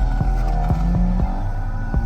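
Car with a muffler delete accelerating, its engine note rising steadily, over music with a thumping beat.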